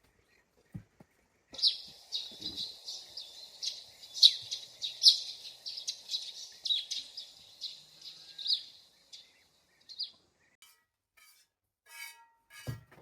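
Many small birds chirping busily together: a dense run of high chirps that starts sharply about a second and a half in and stops about ten seconds in.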